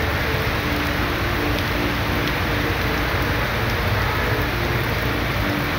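Heavy rain falling steadily, with traffic driving through a flooded road.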